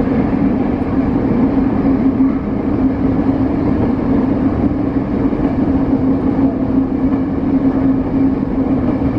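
Saitama Railway 2000 series electric train running along the track, heard from inside the cab: a steady rumble with a constant low hum.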